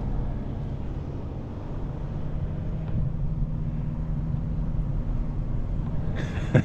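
Kia Forte GT's turbocharged four-cylinder direct-injection engine running steadily at low revs while the car creeps along at low speed, burning off intake-valve cleaner. A short burst of hiss comes near the end.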